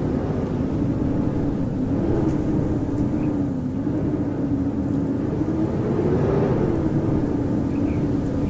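Howling winter wind blowing steadily, with a low whistling pitch that wavers up and down and swells a little about six seconds in.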